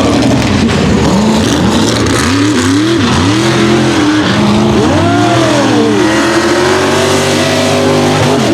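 Mega truck engine racing through a mud course, revving up and falling back again and again roughly once a second as the throttle is worked, then holding a higher, steadier pitch near the end before dropping off.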